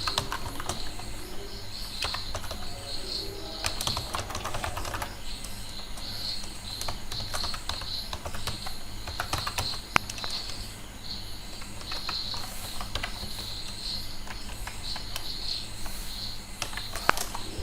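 Typing on a computer keyboard: irregular keystrokes, some in quick runs, with pauses between them.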